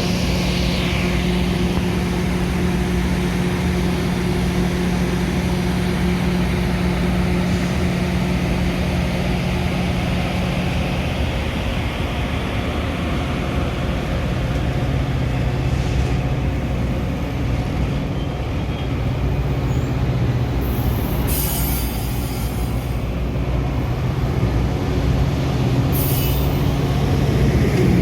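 Metra diesel commuter train running with a steady engine drone, its pitch dropping slightly about a third of the way in. Short hisses come twice near the end.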